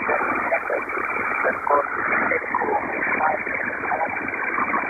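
HF single-sideband aircraft radio heard through a shortwave receiver: a steady hiss of static, cut off sharply above about 2.5 kHz, with a faint, garbled voice under the noise.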